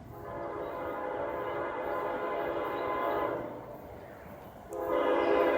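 Horn of a CSX GE ES44AH locomotive blowing a long chord blast of several tones, then a short pause and a second, louder blast starting near the end, as the train approaches.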